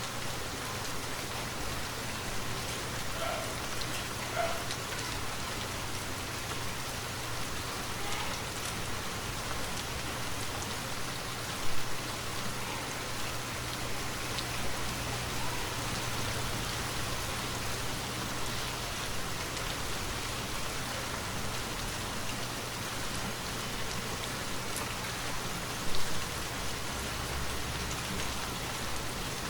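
Steady rain falling, an even hiss, with two brief louder taps: one about twelve seconds in and one near the end.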